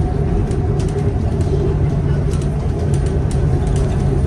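Bus engine running steadily under way, heard from inside the cabin: a continuous low rumble with a steady faint high whine, and scattered light rattles and clicks.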